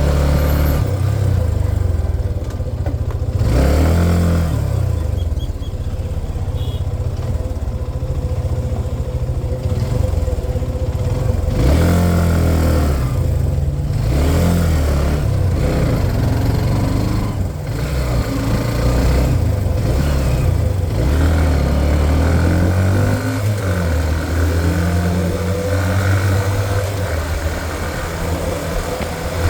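Hero Xtreme 125R's single-cylinder 125 cc engine under load on a hill climb, its pitch rising and falling again and again as the rider opens and eases the throttle.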